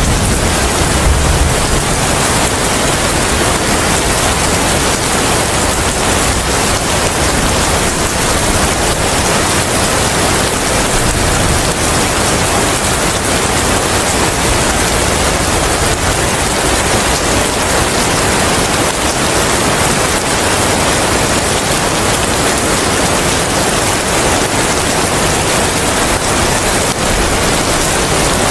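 Steady rain and wind, one dense, even hiss. A low rumble fades out about a second in.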